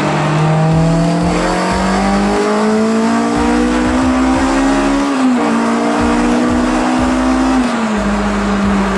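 Honda Integra Type R DC5's K20A four-cylinder engine pulling under acceleration, its pitch climbing steadily. About five seconds in the revs drop sharply on an upshift, then hold before falling again near the end.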